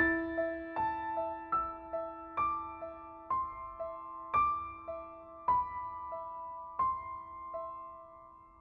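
Background piano music: slow single notes struck and left to ring, a repeated middle note alternating with a higher melody over a held low note.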